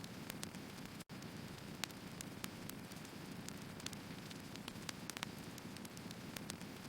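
Firewood burning, a steady hiss and rumble of flames with frequent sharp, irregular crackles and pops. The sound drops out for an instant about a second in.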